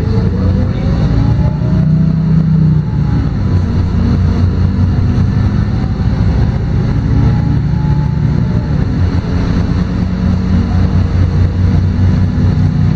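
LiAZ-5292 city bus driving, heard from inside the cabin: a steady low engine hum with road noise, and a faint whine that rises in pitch twice as the bus picks up speed.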